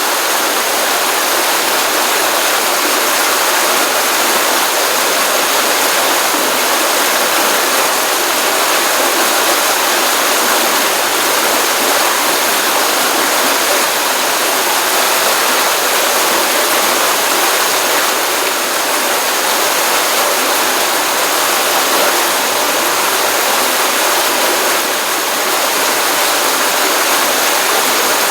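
Pond stream running steadily after a rainstorm: continuous rushing and splashing water, even and unchanging.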